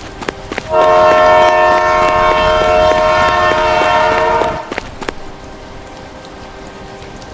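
Train horn sounding one long blast of several notes at once for about four seconds, starting just under a second in and stopping abruptly, followed by the steady rumble of the train with a few sharp clicks.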